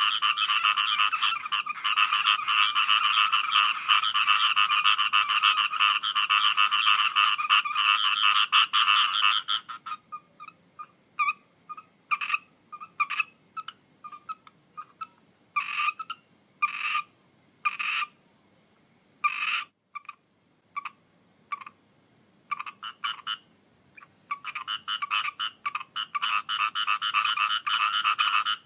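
Frogs calling in a dense chorus of rapid croaks. The chorus cuts off suddenly about a third of the way in, leaving only scattered single calls, then starts up again in full near the end.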